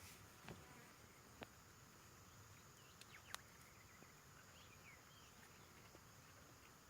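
Near silence: faint outdoor ambience with a steady high hiss, a few soft clicks and some faint short chirps.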